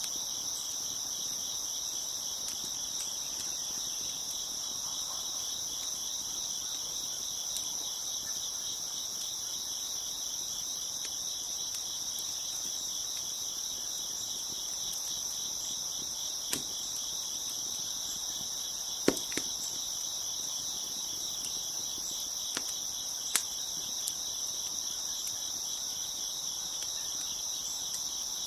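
Crickets chirping in a steady, dense chorus, with a handful of sharp pops from a crackling wood fire scattered through the middle of the stretch, the loudest a little past the halfway mark.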